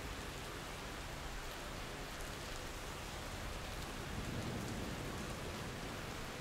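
Steady rain falling, with a low rumble of thunder swelling about four seconds in.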